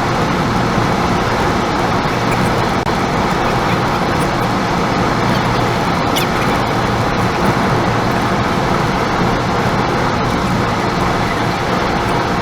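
Steady road noise of a car being driven, a dense even hum of tyres and engine.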